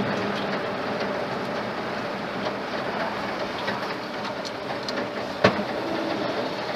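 Freshly rebuilt Ford flathead engine running steadily with a light, even clatter, while it is being run in. A single sharp click sounds about five and a half seconds in.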